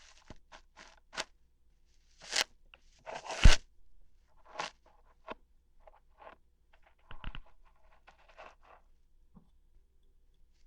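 ASMR ear-hair plucking sounds: a string of short, crackly scratching and tearing noises, irregularly spaced. The loudest comes about three and a half seconds in.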